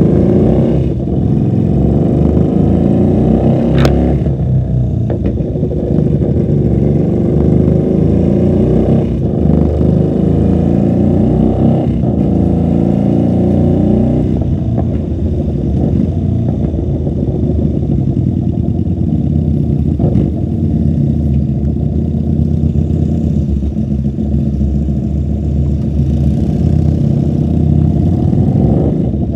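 QJMotor SRV250 motorcycle running through a custom 2-into-1 exhaust, pulling up through the revs several times in the first half with a sharp click about four seconds in, then running steadier at lower revs. The sound is muffled, heard from inside the rider's bag.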